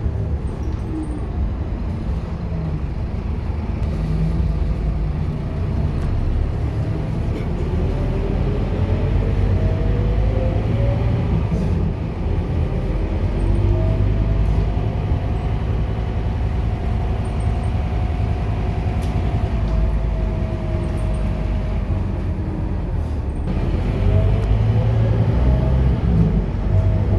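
Scania K230UB city bus's diesel engine running under way. Its whine climbs as the bus accelerates about a quarter of the way in, holds steady through the middle, then drops and climbs again near the end.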